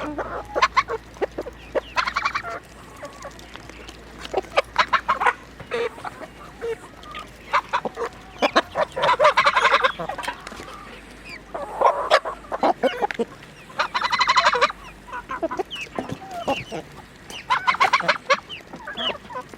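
A flock of free-range chickens clucking and calling, in short bursts of calls, with many sharp clicks in between.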